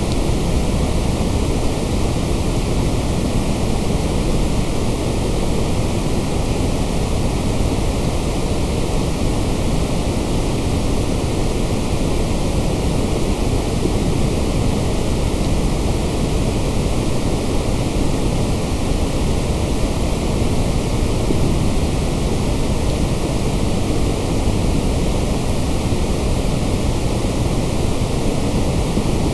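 Steady electronic noise played continuously for sleep or focus: an even, unchanging hiss, heavier in the low end, with no events.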